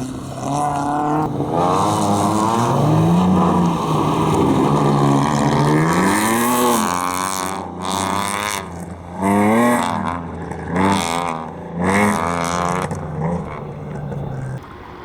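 Racing vehicle's engine revving hard, pitch climbing in long pulls and then a run of short rising throttle bursts about every second and a half, before it falls away near the end.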